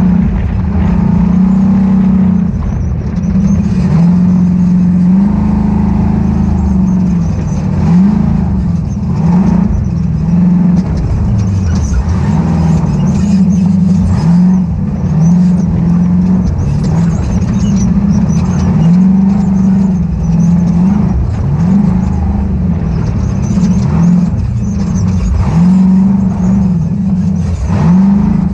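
Ultra4 off-road race car's engine running loud under hard throttle, its pitch repeatedly climbing and dropping as the throttle is worked on and off, every second or two through the second half.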